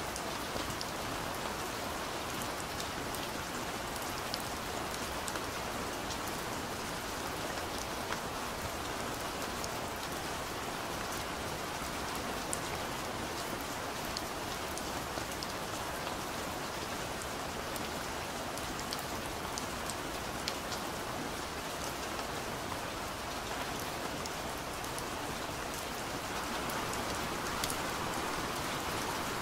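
Steady rain falling, with scattered drops ticking on a surface; it grows a little louder near the end.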